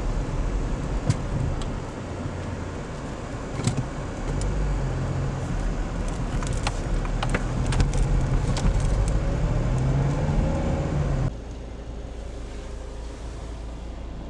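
Car running along the road, heard from inside the cabin: steady engine hum and tyre and road noise, with a few light clicks and knocks. The noise drops suddenly to a quieter, steady level about eleven seconds in.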